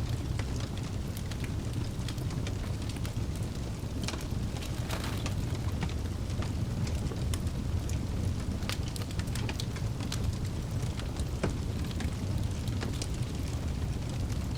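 Wood fire burning in a fireplace: a steady low rumble of the flames with frequent sharp crackles and pops from the burning logs, scattered irregularly throughout.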